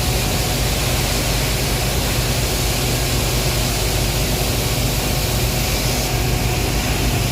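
Power plant machinery running steadily: a constant low hum with a strong hiss over it.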